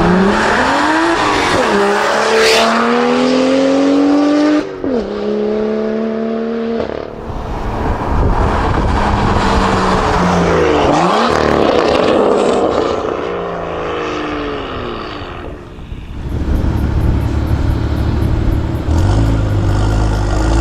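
BMW F87 M2's turbocharged straight-six, through an Armytrix valved exhaust, accelerating hard in a manual gearbox. The pitch climbs and then drops sharply at each upshift, twice in the first five seconds. It then pulls loudly again before easing off, and a low rumble comes in near the end.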